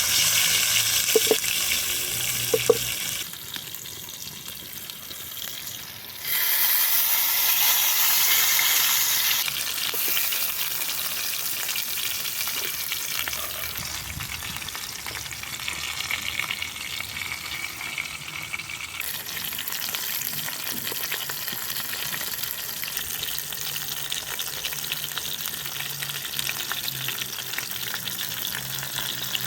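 Food frying in hot fat with a steady sizzle. The sizzle drops in loudness about three seconds in and jumps louder at about six seconds, then settles back to an even level.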